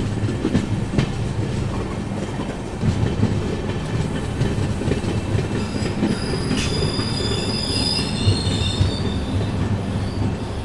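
Passenger train rolling slowly into a station, a steady rumble with the wheels clicking over rail joints and points. From about six seconds in, a high squeal from the braking wheels lasts about three seconds as the train comes in to stop.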